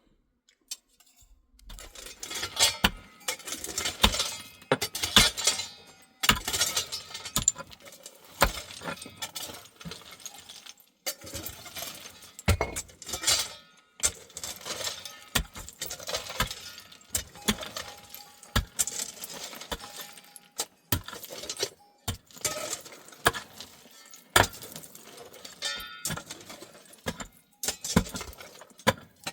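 Irregular clinking, knocking and scraping of hard objects being handled, starting about a second and a half in and continuing in uneven bursts.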